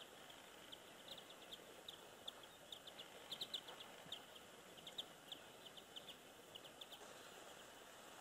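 A small bird calling in a very quiet, still outdoor setting: many short, high chirps in quick irregular runs, dying away near the end.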